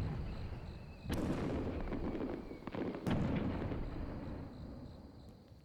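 Fireworks bursting overhead: a boom already fading at the start, then two more sharp booms about a second and three seconds in, each trailing off in a long, rumbling crackle.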